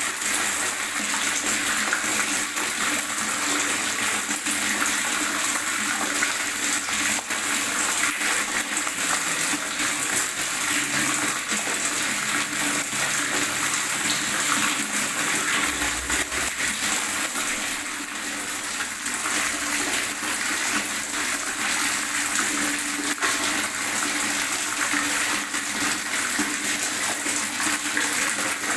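Water gurgling steadily, a continuous rushing flow full of tiny bubbling pops and splashes, without pause.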